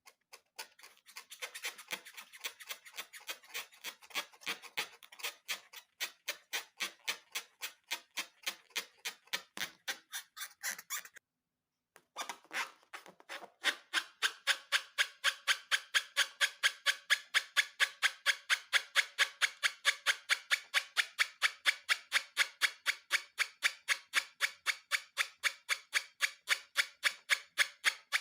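Steady rhythmic ticking, about three sharp clicks a second, that breaks off briefly about eleven seconds in and comes back louder.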